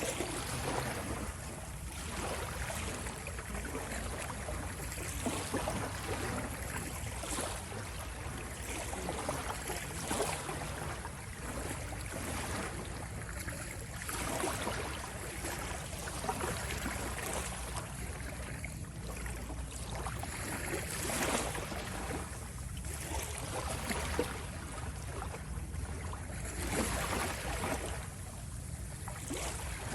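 Sea waves washing and splashing continuously, with small surges every second or two.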